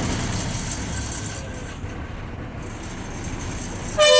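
Steady engine and road rumble of a moving bus heard from the driver's cabin. Near the end a loud horn starts sounding, a steady two-tone blare.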